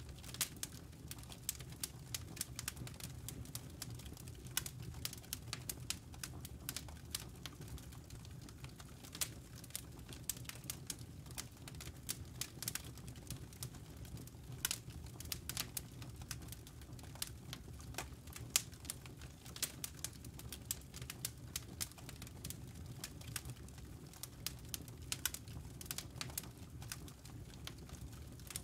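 Wood logs burning in a fireplace: irregular sharp crackles and pops over a steady low rumble.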